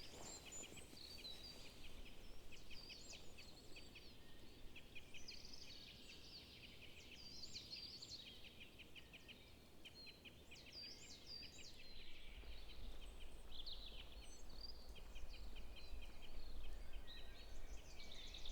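Several songbirds singing: rapid trilled phrases and repeated looping whistled notes overlapping, with a low rumble joining about two-thirds of the way through.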